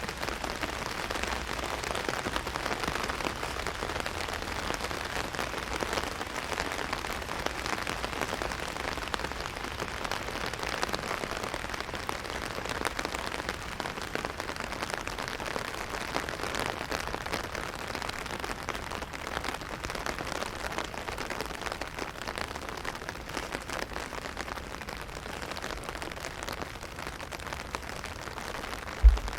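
Heavy rain drumming steadily on an umbrella, a dense, even hiss of many small drop hits. A single low thump sounds near the end.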